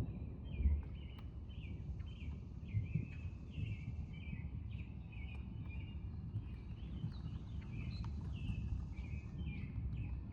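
A bird calling steadily with short, downward-slurred chirps, about two a second, over a low, fluctuating rumble of outdoor background noise.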